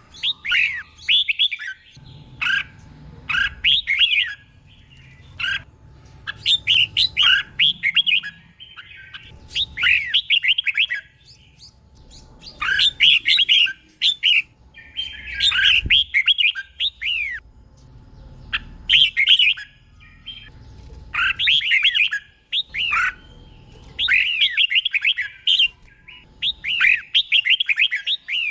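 Red-whiskered bulbul singing: short, warbled phrases of a second or two each, repeated every couple of seconds, over a faint low rumble.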